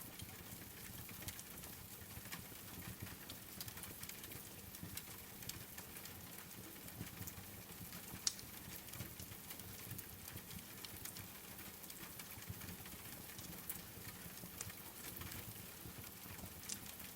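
Wood fire crackling in a fireplace over a steady patter of rain, with frequent small pops and one sharper pop about eight seconds in.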